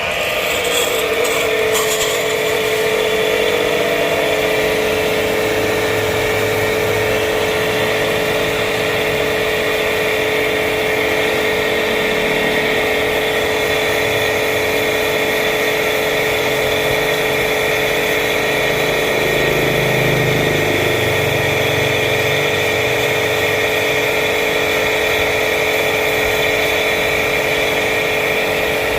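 A motor-driven machine running steadily: a constant hum-whine with a hiss over it.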